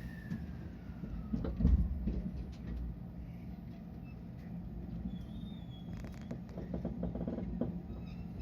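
Steady low hum of a stopped JR West 223 series electric train, with one heavy thud about a second and a half in and a scatter of light clicks and knocks near the end.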